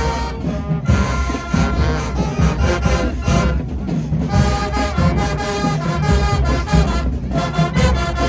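High school marching band playing: brass horns over a steady drum beat.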